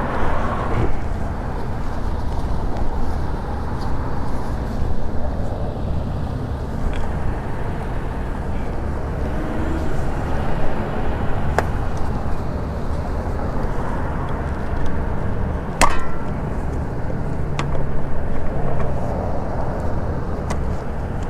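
Steady low wind and road rumble from riding an electric bike, with a few sharp clicks or knocks, the loudest about 16 seconds in.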